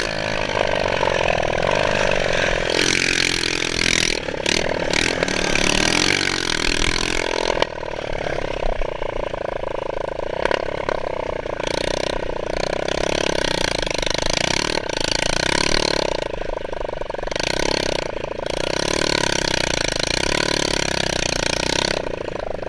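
Motocross bike's two-wheeler engine running and revving, its pitch rising and falling in the first several seconds and then holding more steadily. The note sounds odd to the riders, who put it down to the exhaust pipe, perhaps burnt packing.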